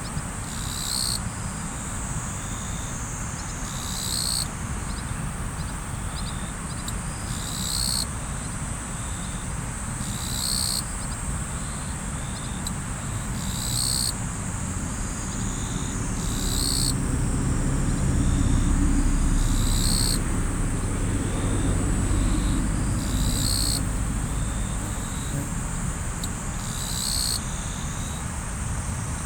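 Riverside night ambience: a steady high-pitched insect chorus with a louder chirping pulse repeating about every three seconds, over the even rush of flowing river water. A low drone swells up in the middle and fades again.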